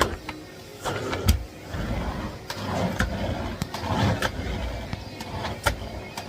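Miele Blizzard CX1 cylinder vacuum cleaner in use, an uneven running rumble broken by several sharp knocks and clicks as the nozzle is worked over surfaces.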